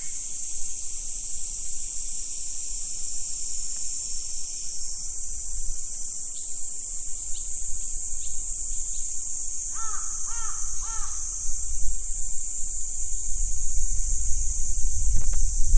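A steady, high-pitched insect chorus runs throughout. About ten seconds in, a crow caws three times in quick succession. A low rumble builds near the end.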